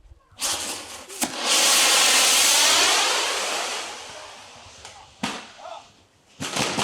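Handmade set-piece fireworks (shikake enka) going off: a loud rushing hiss of spraying sparks swells about a second in and fades over the next few seconds. Sharp cracks come about a second in, around five seconds and near the end.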